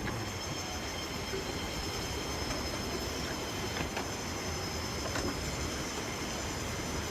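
Alpine coaster cart rolling along its metal rail track: a steady rumble of wheels on rail with faint clicks at regular intervals.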